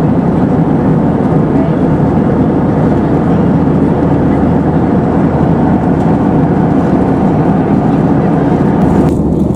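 Steady cabin noise of an Airbus A320 in flight, a loud even rush of airflow and engine drone heard from a passenger seat. Near the end the higher hiss drops away suddenly, leaving the lower drone.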